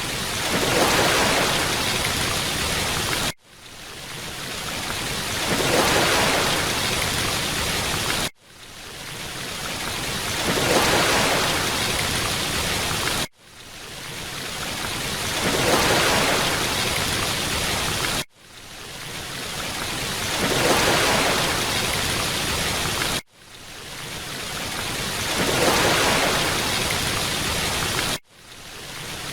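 Rushing water of a waterfall, a short recording played on a loop: about every five seconds the sound cuts off abruptly and swells back in over a second or two, six times in all.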